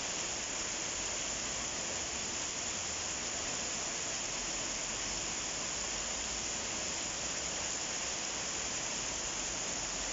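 Steady summer rain falling, an even hiss of drops with no thunder.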